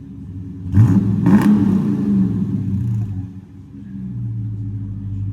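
Dodge Charger R/T's 5.7-litre Hemi V8 with its resonator deleted, blipped twice about a second in and then dropping back to a steady idle.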